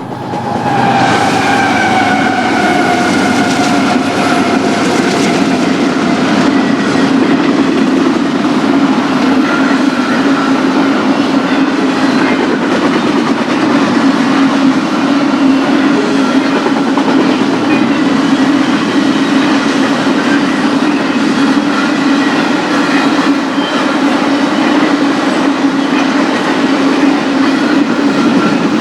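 BNSF intermodal freight train rolling past steadily, its wheels running over the rail with a continuous rumble and clatter. A set of pitched tones slides gently down in pitch over the first few seconds and then fades under the rumble.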